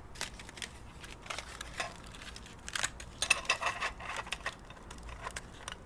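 Aluminum foil crinkling as it is pressed into place by hand, with irregular light clicks and taps, busiest about three seconds in.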